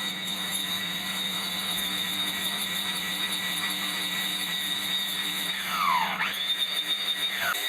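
Electric grass trimmer's motor running with a steady high whine. Near the end its pitch dips and comes back up twice.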